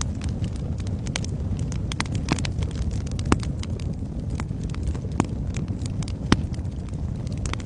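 Wood fire crackling in a fireplace: a steady low rumble of flames with irregular sharp snaps and pops, a few louder pops standing out.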